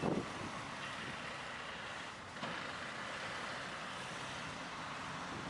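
Vehicle driving: steady road and engine noise, with a short louder burst right at the start.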